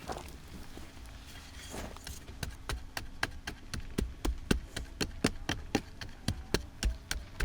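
A rapid, even run of sharp knocks or taps, about four a second, starting a couple of seconds in and lasting about five seconds.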